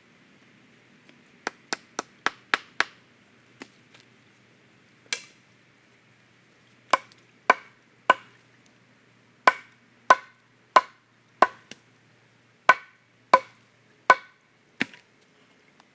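Hand tool striking wood in sharp, separate blows. About a second and a half in comes a quick run of about six lighter knocks; from about seven seconds, louder blows fall roughly every two-thirds of a second in short runs, each ringing briefly.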